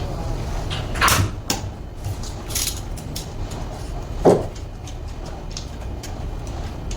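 A few sharp knocks and clicks, the loudest about four seconds in, over a steady low rumble.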